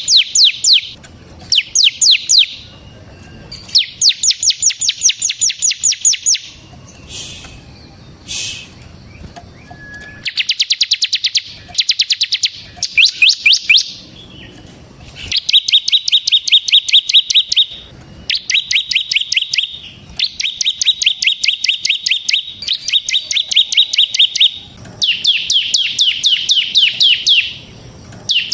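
Bar-winged prinia (ciblek) singing its 'ngebren' song: bouts of rapid, evenly repeated high notes, about ten a second, each bout lasting one to two and a half seconds, with short pauses between them.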